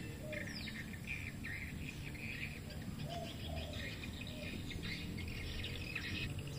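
Small birds chirping, many short quick calls with a few falling whistles, over a steady low outdoor rumble.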